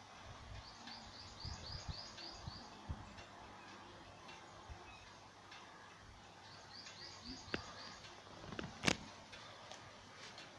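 A small bird calling: a quick run of about six short high notes, then the same run again some six seconds later, over faint outdoor background noise. A few sharp clicks near the end, the loudest about nine seconds in.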